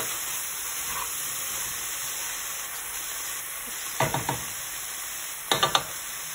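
Shredded chicken, carrots and celery sizzling in oil in a pot on the stove, a steady hiss. A wooden spoon knocks on the pot three quick times about four seconds in, and three more near the end.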